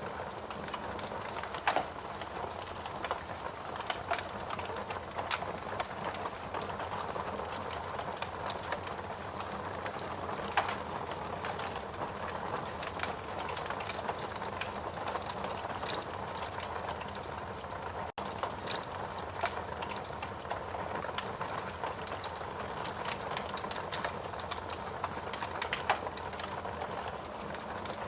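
Wood log fire burning in a fireplace: a steady hiss with frequent crackles and occasional louder sharp pops.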